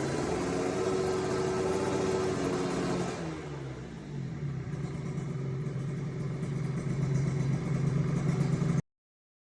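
Kawasaki Ninja RR 150's single-cylinder two-stroke engine running through a Nens 41 aftermarket exhaust: held at a raised rev, then the revs fall back about three seconds in and it runs on steadily, slowly getting louder, until the sound cuts off suddenly near the end.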